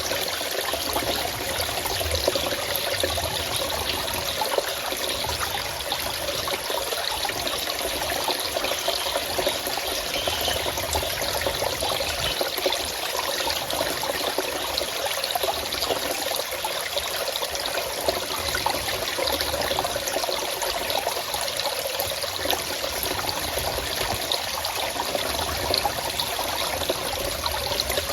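Water running and trickling steadily in a forest stream, an even rushing sound with no breaks.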